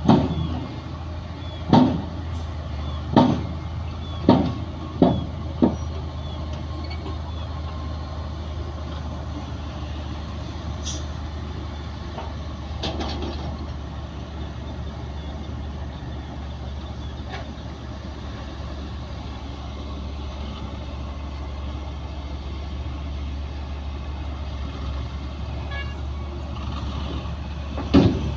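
Heavy diesel engine of a bulldozer running steadily, with sharp loud knocks: five or six in the first six seconds and one more near the end.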